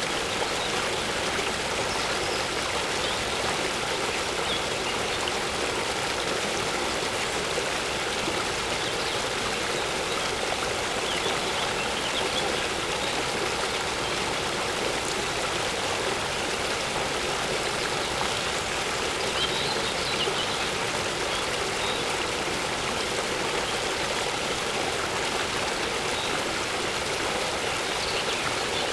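Waterfall pouring steadily into a lake, an even rushing of water, with faint bird chirps now and then.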